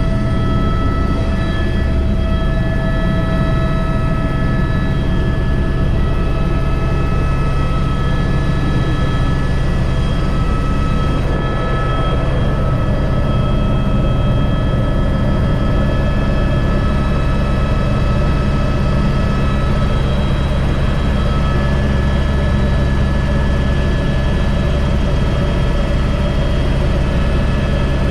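Airbus H125 (AS350 B3) helicopter in flight: a steady, loud turbine whine with several high tones over a deep, even rotor and engine rumble, holding constant throughout.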